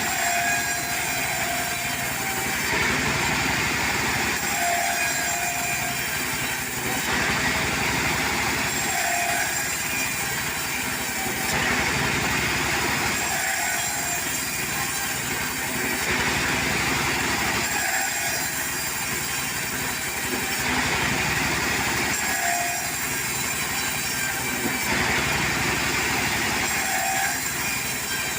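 Portable sawmill running: its engine runs steadily while the saw cuts wood, the sound shifting in a regular cycle about every four to five seconds.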